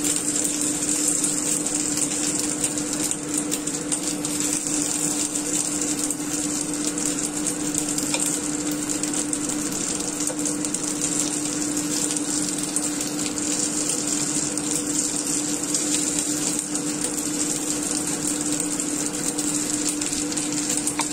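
Chicken-and-scallion dumplings frying in oil in a nonstick pan: a steady sizzle with fine crackling, over a constant low hum.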